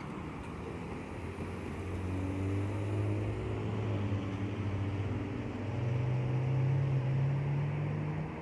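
Motor vehicle engine running with a steady low hum, its pitch stepping up about five and a half seconds in.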